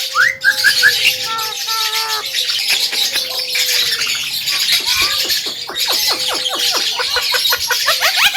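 Javan myna (jalak kebo) singing a varied song. It opens with a few quick sweeping notes and some held whistled notes, turns to a harsh, hissing chatter in the middle, and from about two-thirds in gives a fast run of short sweeping notes, several a second.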